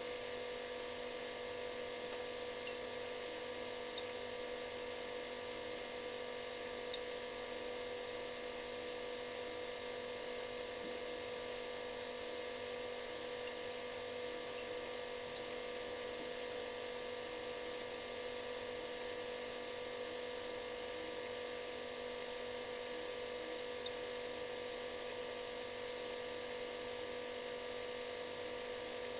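Refrigerator running with a steady, unchanging buzzing hum.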